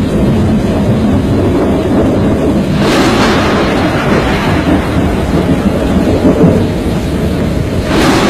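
Loud, continuous rumbling roar of storm wind on the microphone. A brighter hiss cuts in sharply about three seconds in and again near the end.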